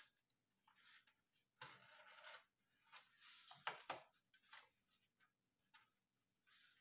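Faint, irregular scraping and crackling of a blade cutting through sheet material, separating a model-plane wing half.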